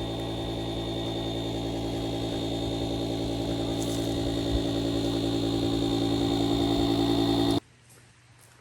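Vehicle engine running steadily, slowly growing louder, then cutting off abruptly about seven and a half seconds in.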